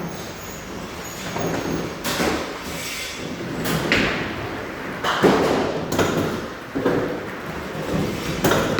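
Bowling alley noise: a run of heavy knocks and clatters from bowling balls and pins, about six sharp impacts spread over a steady din.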